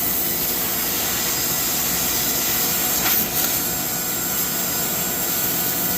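Steady rushing, hissing noise of a CNC laser metal-cutting machine at work, with a faint short tick about three seconds in.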